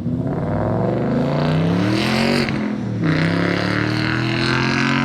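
2013 Ford Mustang GT's 5.0-litre V8 revved twice in neutral. Each time the pitch climbs for about two seconds before dropping back, and the second rev cuts off near the end.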